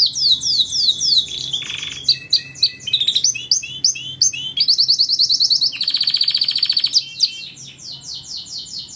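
Domestic canary singing a continuous song of fast trills and rows of quick down-slurred notes, switching to a new phrase every second or two.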